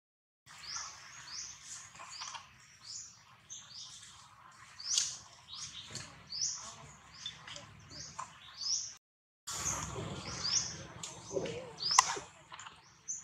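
A bird chirping over and over, with short high rising notes about two a second and a sharp click near the end.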